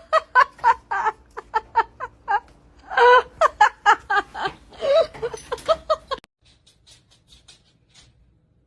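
A person laughing hard in rapid repeated bursts, about three to four a second, which cut off abruptly about six seconds in, leaving only a few faint ticks.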